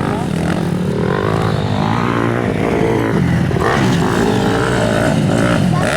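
Motocross dirt bike engines revving, their pitch rising and falling with the throttle as they ride the track.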